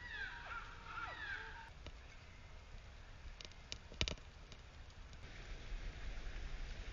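Birds calling with a run of short falling chirps during the first second and a half or so. A few sharp clicks follow between about three and a half and four seconds in, the last one the loudest.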